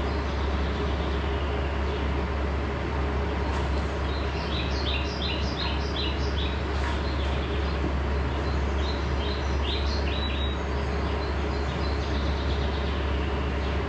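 Small birds chirping in two quick runs of short, high, repeated notes, about four seconds in and again near ten seconds, over a steady low hum and hiss.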